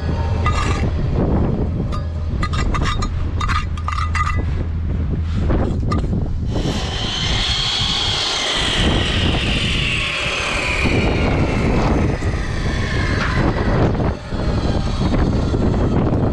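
Strong wind buffeting the microphone, with short taps early on, then a loud high whine that slowly falls in pitch over several seconds.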